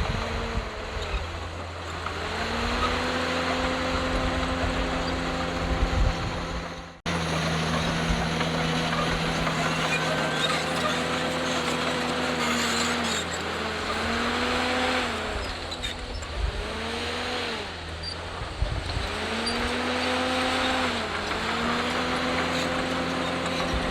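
Diesel engine of a Komatsu D51PX crawler bulldozer running, its pitch sagging and climbing back several times as the load on it changes. There is a sudden break about seven seconds in.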